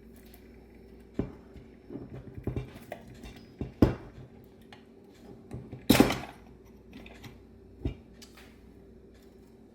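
Clinks and knocks of the metal parts of a Bendix Stromberg WWC two-barrel carburetor being handled and set down during teardown. There are a handful of sharp knocks, the loudest about four and six seconds in, over a faint steady hum.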